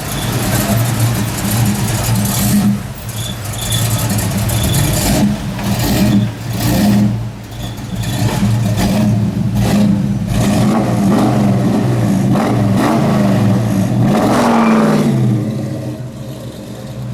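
Chevrolet Nova's engine revving in repeated blips, then running loud and steady for several seconds under acceleration before its pitch falls away near the end.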